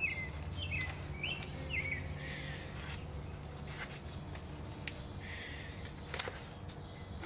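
Small birds chirping, a quick run of short chirps in the first two seconds, with a few sharp clicks, the loudest about six seconds in, over a steady low rumble.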